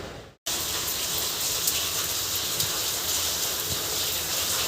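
Steady rain falling, an even hiss with scattered drop ticks, which cuts in suddenly after a brief silence about half a second in.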